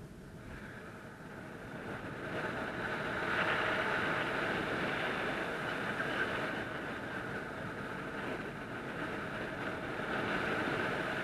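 Wind rushing over the microphone of a paraglider in flight, a steady rush that swells and eases.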